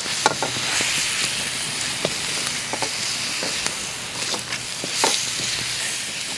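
Bacon and sliced onions frying in a very hot wok: a steady sizzle with scattered small pops, and a wooden stick stirring and scraping the food around the pan.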